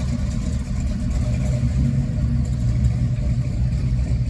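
Car engine running at low speed, a steady low rumble.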